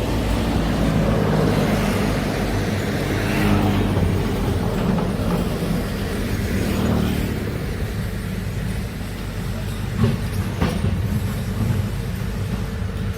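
Heavy diesel machinery running, louder for the first several seconds and then easing off, with two sharp knocks about ten seconds in.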